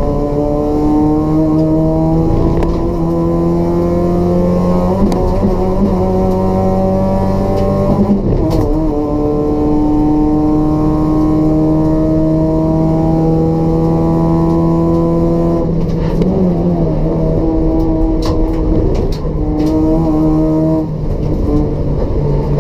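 Race-prepared Toyota Etios's 1.5-litre petrol engine with a free-flow exhaust, pulling under full throttle with revs climbing steadily. The pitch drops sharply about eight seconds in at an upshift, then climbs again. Around sixteen seconds in the driver lifts off, with a few quick rev changes, before the engine pulls again near the end.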